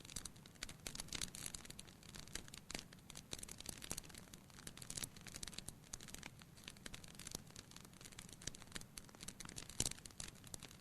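Wood fire in a fireplace crackling, with dense small snaps and pops over a low steady rumble and one louder pop near the end.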